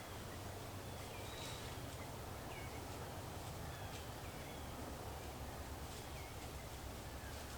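Small birds chirping faintly, short calls every second or so, over a steady low rumble of outdoor background.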